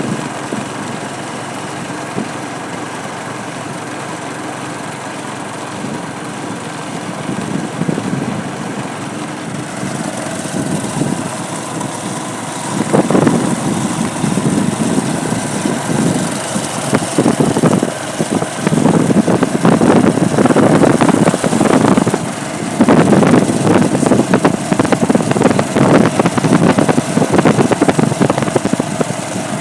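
A vehicle engine running, steady at first, then louder and rougher with uneven pulsing from about halfway through.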